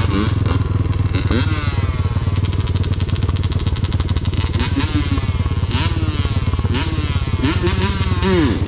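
Pit bike engines running close by: a steady low drone throughout, with an engine revving up and down, its pitch rising and falling through the middle.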